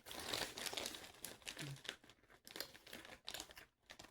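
Crinkling of a plastic snack bag of white cheddar puffs as it is handled, in irregular crackles.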